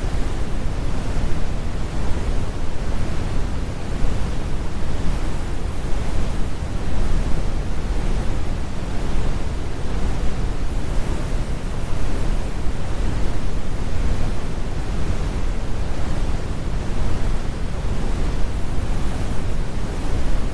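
Brown noise: steady, synthetic noise with a deep low rumble and the highs rolled off, with no changes or events.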